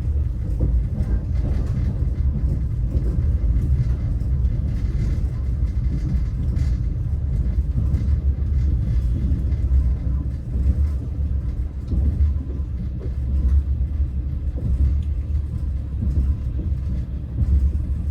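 Passenger train running at speed, heard from inside the carriage: a steady low rumble of the wheels and running gear on the rails.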